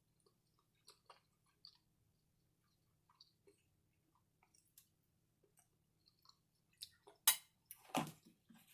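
Close-up chewing and mouth sounds of a person eating: faint, scattered wet clicks, with a few louder smacks near the end.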